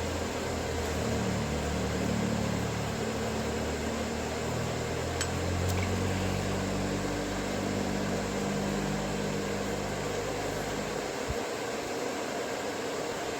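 A steady mechanical hum with hiss, like a small motor running, its low hum dropping away about eleven seconds in. Two faint clicks come around five seconds in.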